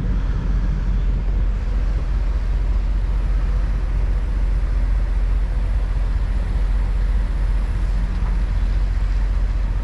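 Semi-truck's diesel engine running with a steady low rumble and a faint steady hum above it.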